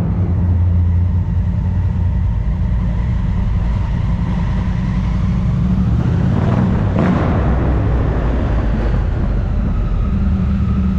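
Motorcycle on the move at steady speed: a constant low engine drone under rushing noise, with a brief swell about seven seconds in.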